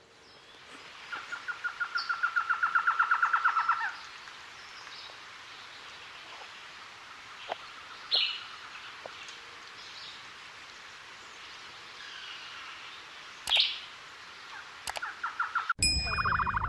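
Small birds calling: a rapid trill of evenly repeated notes, about seven a second, for roughly three seconds near the start, then scattered short chirps and a couple of sharp clicks. The sound changes abruptly just before the end.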